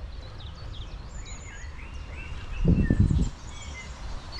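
Small birds singing and chirping outdoors, with a steady low background and a short, louder burst of low noise about three seconds in.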